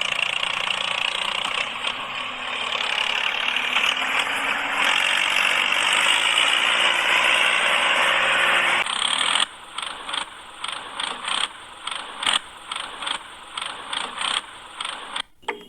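Small motor and gears of a miniature model tractor whirring steadily, then a run of sharp mechanical clicks, about two a second, from roughly nine seconds in.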